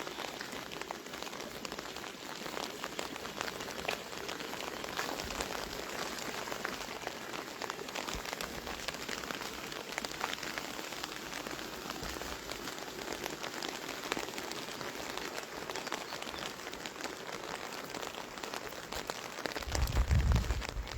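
Steady rain pattering, a dense scatter of small drop hits. Near the end a louder low rumble builds up.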